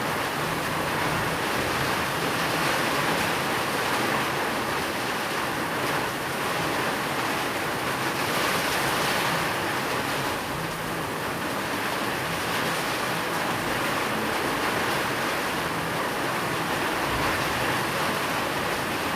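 Steady rain falling, an even hiss without pauses or distinct drops.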